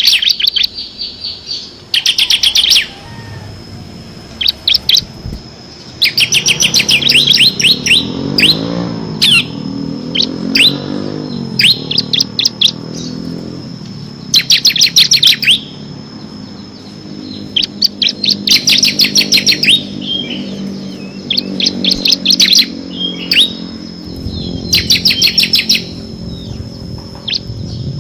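Bar-winged prinia (ciblek) singing its rapid machine-gun trill ('ngebren'): bursts of very fast high notes, each about a second long, repeated every one to two seconds.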